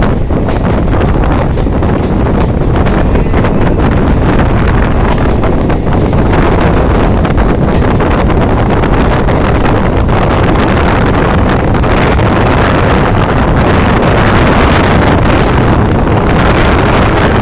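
Loud, steady wind buffeting the microphone, a rumbling rush that covers everything else.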